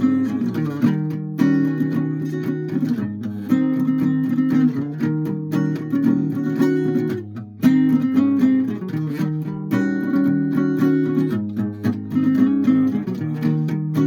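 Guitar music: chords strummed, changing every second or two.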